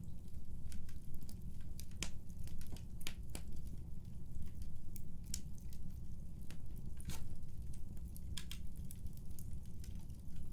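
Wood fire burning in a fireplace: a steady low rumble with irregular sharp crackles and pops, a few of them louder snaps.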